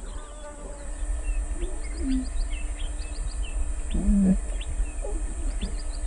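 Wild birds chirping: many short, high chirps, with a lower call about two seconds in and a louder low call about four seconds in, over a steady low rumble.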